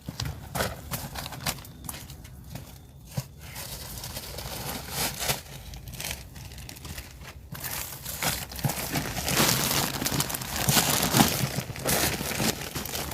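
Plastic bag of compost crinkling and rustling as it is handled: scattered crackles at first, then denser and louder rustling from about eight seconds in.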